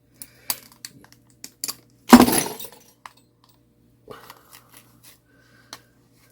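Small clock mainspring being worked loose from its coil: a few light metallic clicks, then about two seconds in one loud sudden clatter as the spring lets go, followed by scattered small clicks and clinks.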